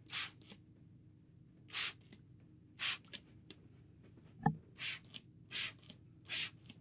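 Trigger-style hand spray bottle squirting about six short hissing mists, irregularly spaced, wetting the hair before a haircut, with one brief soft knock about halfway through.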